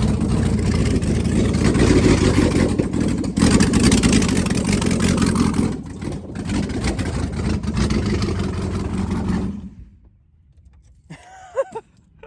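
A 5.3-litre V8 with a Texas Speed stage 3 truck cam running on straight open exhaust ports, with no headers, pipes or mufflers, ridiculously loud. It swells in revs a couple of times, then stops about ten seconds in.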